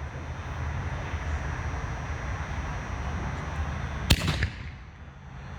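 Consumer canister aerial shell bursting in the air with a sharp bang about four seconds in, followed by a brief crackle. A steady low rushing noise runs before the burst.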